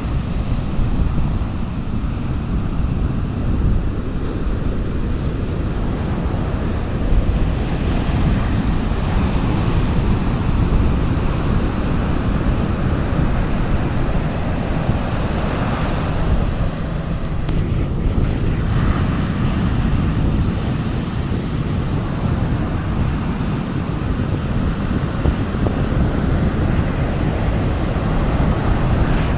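Sea waves washing onto a beach, a continuous surf that swells and eases slowly, with heavy wind rumble on the microphone.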